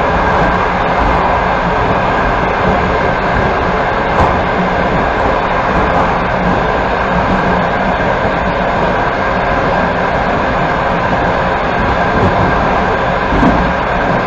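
Steady rumble and wheel noise of a passenger train running at speed, with a light knock about four seconds in and another near the end.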